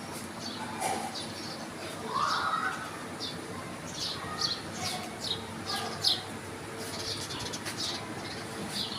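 Small birds chirping: a string of short, quick, downward-sliding chirps, thickest in the middle seconds. A lower, louder call comes about two seconds in.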